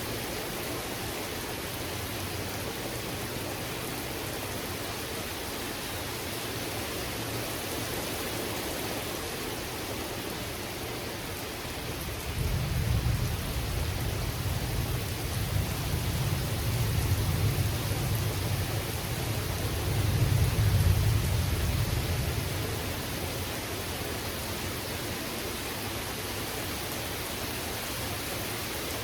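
Steady rain falling. Near the middle a long, low rumble of thunder rolls in, swells twice and dies away.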